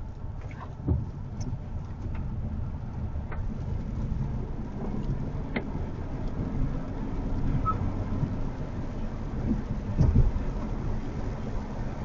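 Car driving on a wet road in the rain: steady low rumble of tyres and road noise with rain spray. There are a few light clicks, and a louder thump about ten seconds in.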